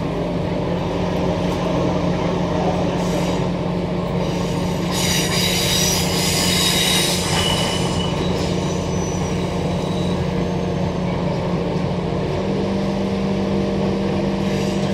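Transperth A-series electric multiple unit running, heard from inside the passenger car: a steady low hum from the train's running gear, with the wheels squealing high-pitched on the rails from about five to seven and a half seconds in. The hum steps up in pitch near the end.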